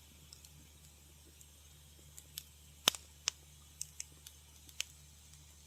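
Wood fire crackling in a fireplace: sharp, irregular pops and snaps over a faint low hum. After a quiet first two seconds they come every half second or so, the loudest snap about three seconds in.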